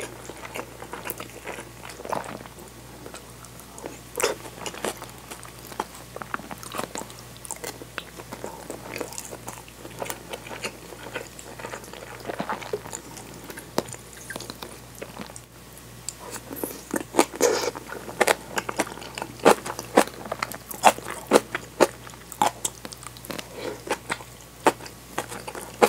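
Close-miked eating sounds: chewing and biting mouthfuls of rice with kimchi-topped tofu and soft-boiled egg, with wet mouth clicks and crunches of the kimchi cabbage. The clicks and crunches come thicker and louder in the second half.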